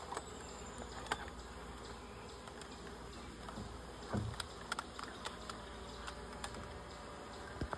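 Swarm of honeybees buzzing steadily, with a few light clicks and knocks.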